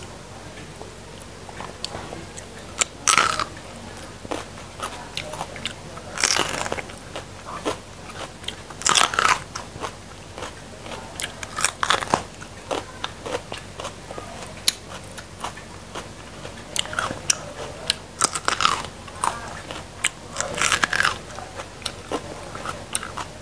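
A person biting and chewing raw bitter gourd: crisp crunches every few seconds with softer chewing clicks between.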